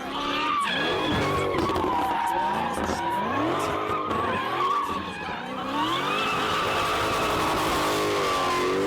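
A car engine revving hard, its pitch rising and falling repeatedly, with tires squealing steadily through a slide. Music plays underneath.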